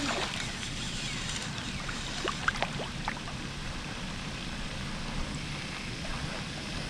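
Steady wash of water and wind noise around a fishing kayak, with a few light taps and knocks about two to three seconds in.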